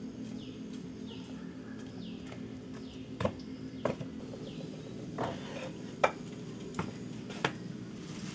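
Sharp knocks and clinks, about six, the loudest about six seconds in, over a steady low hum; in the first half a high chirp repeats about twice a second, each falling in pitch.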